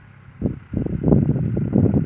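Wind buffeting the microphone in uneven gusts, with a brief lull about the first half second.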